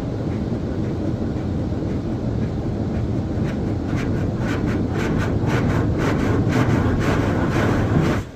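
Istobal M'Wash 3 touch-free car wash machine running, heard from inside the car as a steady low rumble; from about halfway in, a rapid crackling patter of water spray joins it, and everything cuts off suddenly near the end.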